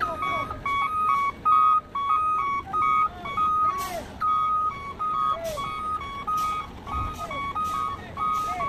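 A truck's electronic reversing alarm sounding, a high and a low note alternating about three times a second without a break, over a low vehicle rumble.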